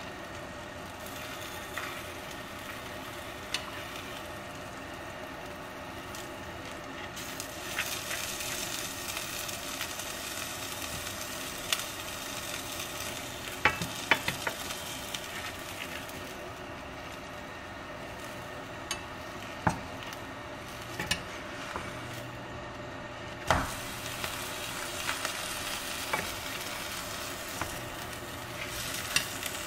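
A tortilla wrap frying in a frying pan with a steady sizzle. Tongs and a knife click and scrape against the pan every few seconds, with a few sharp taps about halfway through that are the loudest sounds.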